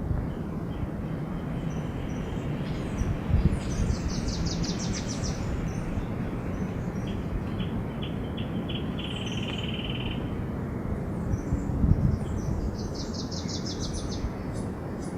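Small birds singing quick high trills, about four seconds in and again near the end, with a lower buzzing trill in between, over a steady low background noise.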